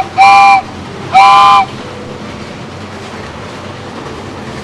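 Train horn sound effect giving two short chord toots, followed by the steady rumble of a train running.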